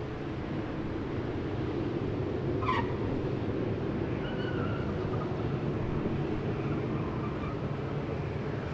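Jet airliner engines running, a steady low rumble that builds over the first second or two and holds. About three seconds in there is a short falling squeal.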